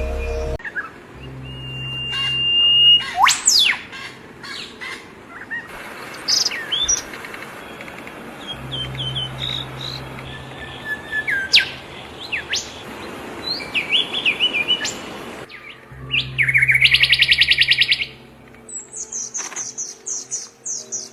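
Assorted songbirds chirping and singing: sweeping whistled notes, short chirps and, near the end, a fast rapid trill, heard as several separate recordings cut one after another.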